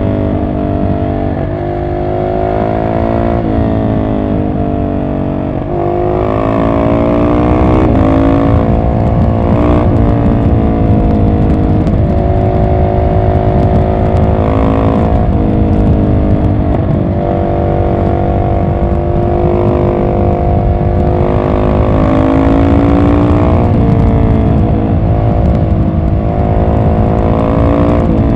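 Husqvarna 701 SM's single-cylinder engine through an Arrow exhaust with the catalyst removed, running under load, its pitch repeatedly climbing and then dropping as the rider works the throttle and gears.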